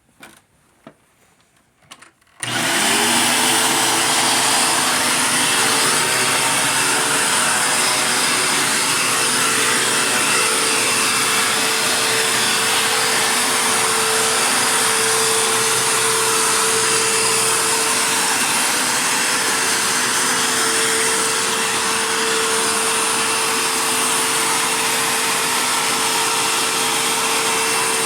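Dirt Devil Jaguar vacuum cleaner switched on about two and a half seconds in, after a few light clicks: the motor comes up to speed within a moment and runs steadily, a loud rush of air over a steady hum.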